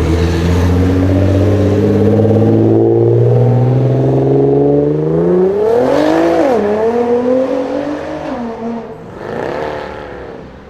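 Nissan GT-R R35's twin-turbo V6 accelerating hard, its revs climbing steadily for about six seconds. The pitch then dips sharply, climbs again and falls away, with one short rev near the end.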